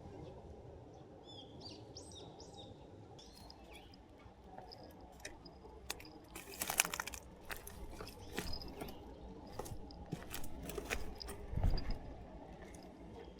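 A small bird chirping a few quick notes, then a run of rustling and sharp clicking handling noises, the loudest about halfway through and again near the end.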